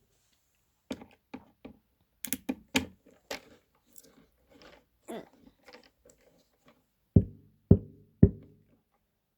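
Small clicks and clatter of parts being handled during a subwoofer teardown, then three loud knocks about half a second apart, each with a short low ringing tone.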